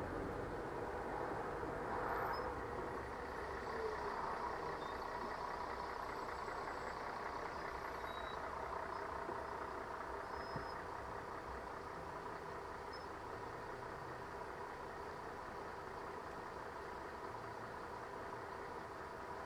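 Steady vehicle hum of engine and road noise, as picked up by a dashcam, with no sharp events.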